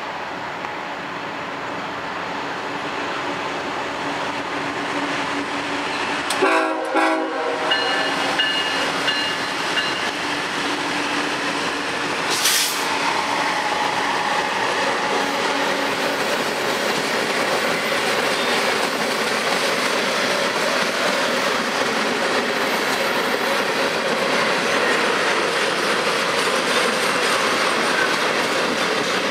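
Freight train approaching and passing close by. The horn sounds briefly about six seconds in, a single sharp bang comes a few seconds later, and then the steady rumble and clatter of the freight cars rolling past runs on.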